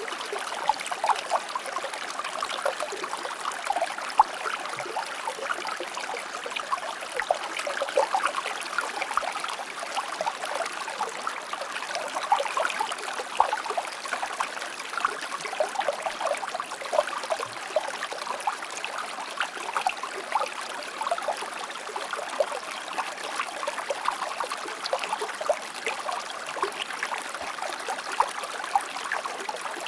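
A shallow stream running over stones, a steady babbling trickle full of small splashes and gurgles.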